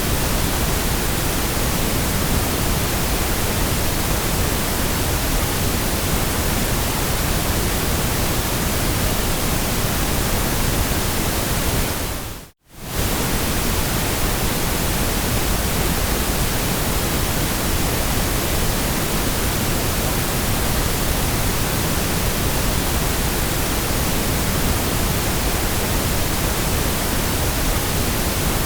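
Steady, even white noise with no pitch or rhythm, dipping briefly to silence and fading straight back about twelve and a half seconds in, a loop point in the track.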